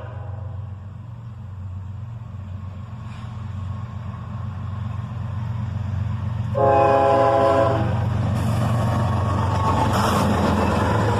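Diesel freight locomotive rumbling, with its air horn sounding one short blast about two-thirds of the way in, a quick horn salute. Then the passing train's wheels and engines grow louder.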